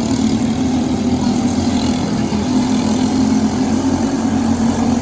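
Briggs & Stratton LO206 single-cylinder kart engine running at a steady, near-constant pitch.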